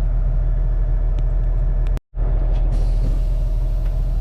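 Semi truck's diesel engine idling steadily, a low rumble heard from inside the cab. It cuts out completely for a split second about halfway through.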